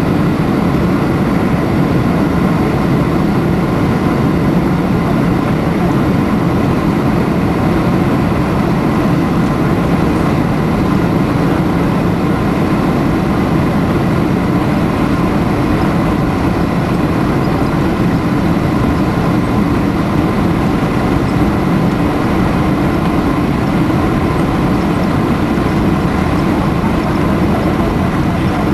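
Airliner jet engines running with a steady, loud drone and a few faint high whining tones on top, with no change in level.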